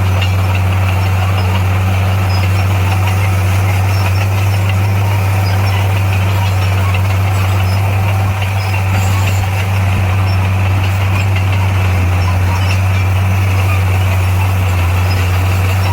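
Heavy diesel engine of earth-moving machinery running steadily, with a deep, even drone.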